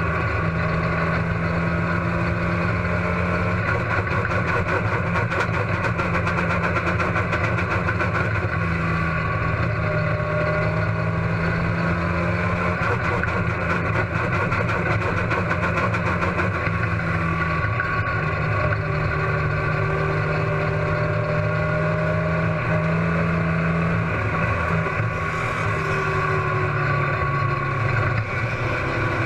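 Race car engine running steadily with small rises and falls in pitch, from a car that has a misfire.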